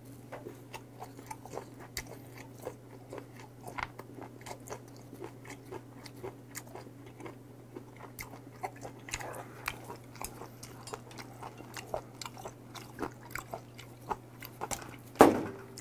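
Close-miked chewing of a mouthful of boiled octopus with greens, many small wet clicks over a steady low hum. Near the end, soju poured from a bottle into a small glass makes a brief louder sound.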